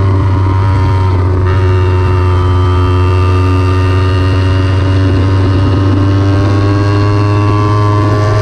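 Kawasaki Ninja 300's parallel-twin engine running hard at high revs, heard from on board the bike. The note breaks briefly about a second in, then its pitch climbs slowly and steadily.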